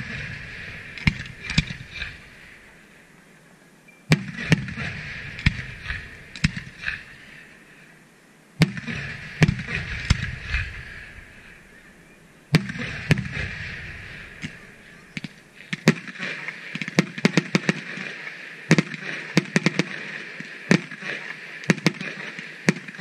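Aerial firework shells bursting with sharp bangs roughly every four seconds, each followed by crackling stars. In the last third the shots come fast, a rapid run of bangs and crackles.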